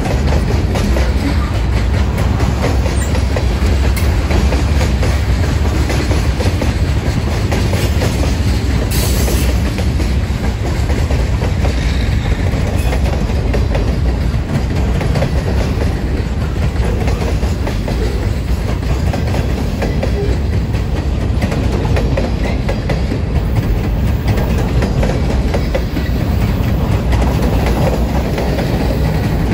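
Freight cars of a long mixed freight train rolling past close by: a steady, loud low rumble of steel wheels on rail with wheels clicking over the rail joints.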